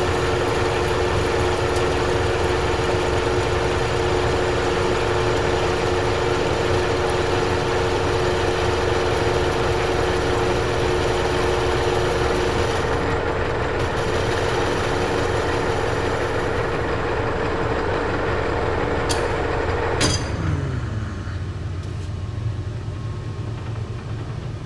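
Old Monarch engine lathe running while turning a hot-rolled 1018 steel bar: a steady machine hum with a constant tone. Part of the tone drops out about halfway through, and about 20 seconds in there is a click, then the lathe winds down with falling pitch.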